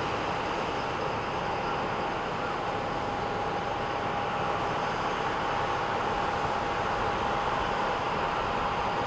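Steady running noise of a vehicle, with a constant whine over it.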